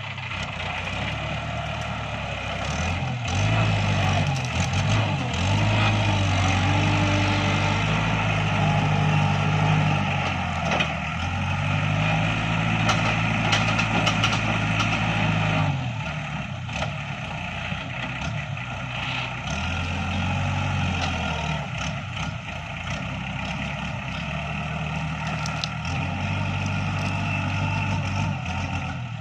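Iseki NT554 tractor's diesel engine running continuously, working harder and louder from about four seconds in until about sixteen seconds, then easing back to a lower, steadier note.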